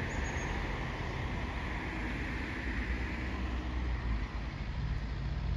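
Steady outdoor traffic noise, a continuous rumble and hiss, with a vehicle engine hum rising in pitch near the end.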